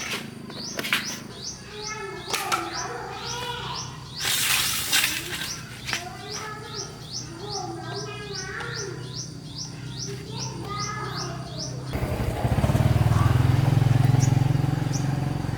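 A small bird chirping over and over, about three short high chirps a second, with a brief hiss near the middle. Near the end the sound changes suddenly to a loud, steady low hum.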